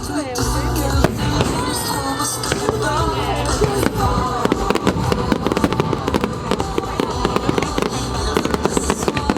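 Fireworks popping and crackling in quick succession, the crackles getting denser after the first few seconds, over the show's music.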